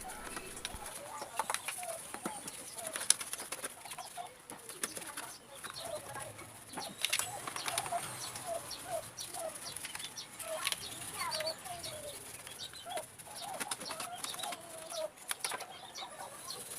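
Birds calling in the background: short pitched notes repeating through the whole stretch, with scattered sharp clicks and taps mixed in.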